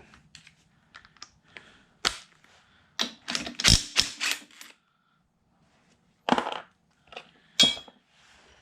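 Sharp metallic clicks and knocks of a socket wrench and tools on a scooter engine's cush drive nut: a single strike, a quick run of several strikes, then two more single ones.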